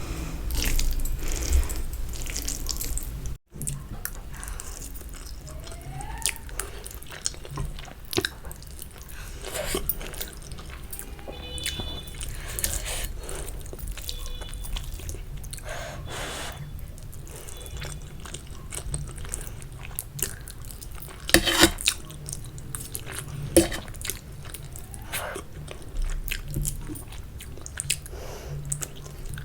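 Close-up eating sounds of a person chewing and biting spicy Maggi instant noodles and boiled eggs, with irregular wet smacks and clicks.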